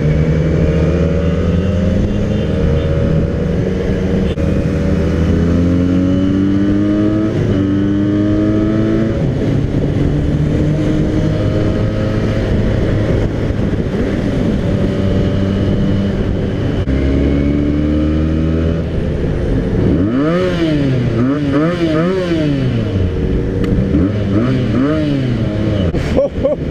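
Benelli 600i motorcycle with a modified Ixil exhaust pulling away, its engine note climbing in pitch several times with a drop at each gear change. Near the end the throttle is blipped repeatedly, revving up and down about six times.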